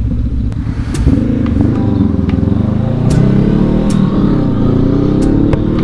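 Honda CB500X's parallel-twin engine running at highway cruising speed, its pitch wavering slightly up and down, with a few brief clicks.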